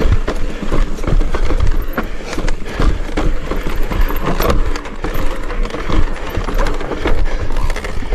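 Mountain bike riding fast over a rough trail: a steady clatter of irregular knocks and rattles from the bike and its tyres over bumps, with a low rumble of wind on the microphone.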